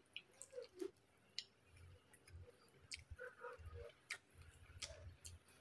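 Faint close-miked eating sounds: chewing with scattered sharp wet mouth clicks, about one or two a second.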